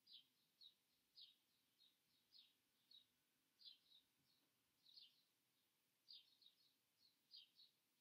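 Near silence, with a small bird faintly chirping over and over, one or two short, high chirps a second.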